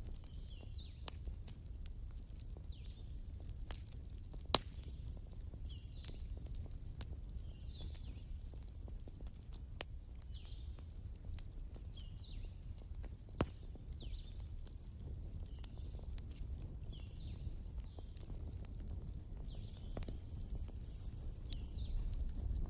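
Wood fire crackling, with a steady low rumble and scattered sharp pops, three of them standing out. Faint short high chirps recur about once a second throughout.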